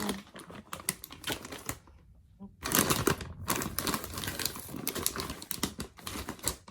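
Dry breakfast cereal rattling into a bowl, a fast dense clatter of small clicks, loudest about three seconds in.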